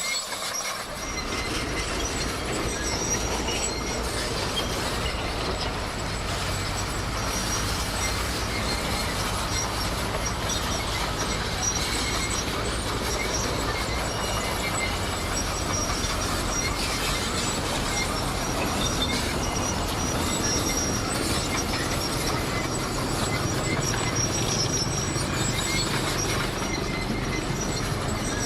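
Komatsu D58 bulldozer working, its diesel engine running steadily under load while its steel tracks squeal and clank. The low engine sound swells about a second in.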